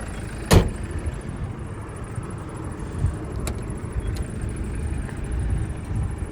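A single sharp knock about half a second in, then a couple of faint clicks, over a steady low rumble.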